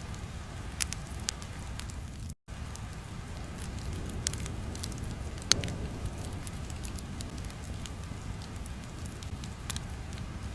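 Crackling fire ambience: a low steady rumble with scattered sharp pops and crackles. The sound cuts out to silence for a moment about two and a half seconds in.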